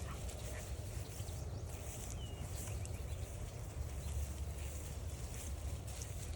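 Woodland ambience on a trail walk: a steady low rumble under a high hiss of distant birds, with a single short slurred bird note about two seconds in.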